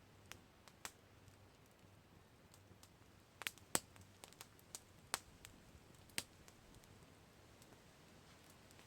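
Campfire crackling: sparse, irregular sharp pops from the burning wood over a faint low hiss, with a quick cluster of louder pops a little before the middle and single pops a second or two later.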